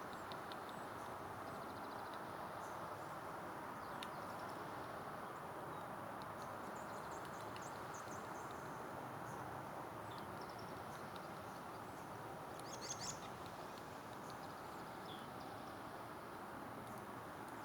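Faint outdoor ambience: a steady, even hiss with scattered short, high bird chirps over it, including a quick cluster of chirps about three-quarters of the way through.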